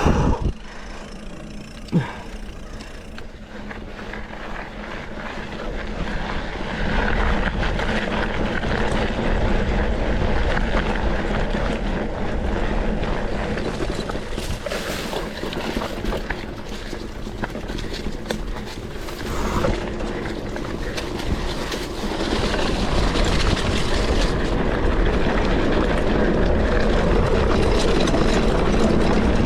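Mountain bike ridden over a rocky off-road trail: continuous rushing ride noise from the tyres on the stones, with a single knock about two seconds in, growing louder through the second half.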